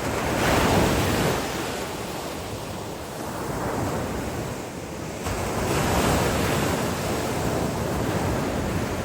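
Ocean waves breaking on a beach, a steady wash of surf that swells twice: about half a second in and again about five and a half seconds in.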